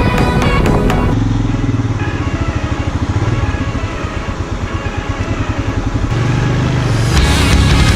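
Motorcycle engine running with fast, even low pulses, breaking in between music at the start and near the end.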